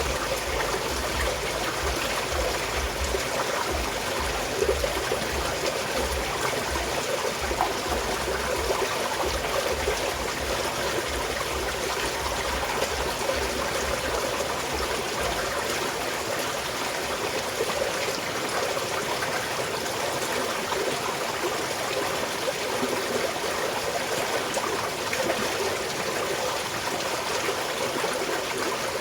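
A small mountain stream flowing steadily, a constant trickle of water. A low rumble sits underneath in the first half and fades out about halfway through.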